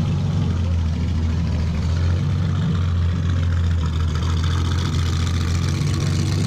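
Ferrari 340 Mexico's Lampredi V12 engine idling steadily with a deep, even note.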